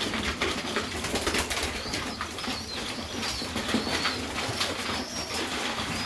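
Hungry Serbian highflyer pigeon squab begging while an adult pigeon feeds it: thin, high peeps about once a second over rapid wing fluttering and clicking.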